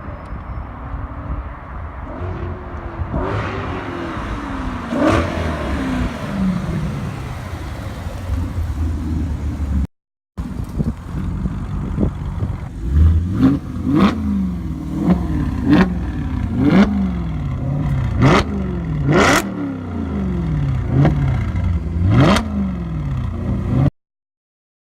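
Audi RS4 Avant engine through an Armytrix valved aftermarket exhaust, revving. First come a few slower rises and falls in pitch. After a brief cut, a run of quick throttle blips follows, about one a second, each rising sharply and falling back. It cuts off near the end.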